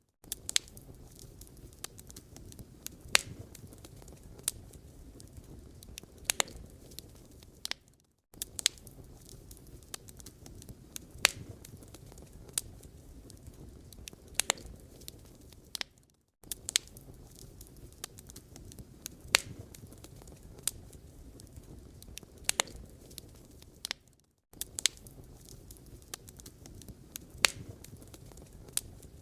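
Wood fire in a fireplace crackling, with sharp pops and snaps over a steady low rumble of burning logs. It cuts out for a moment about every eight seconds.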